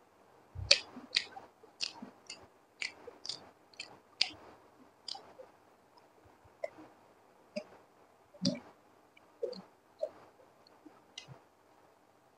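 Close-miked mouth eating egg and fried rice: sharp wet mouth clicks and smacks, about two a second for the first four seconds, then fewer and further apart.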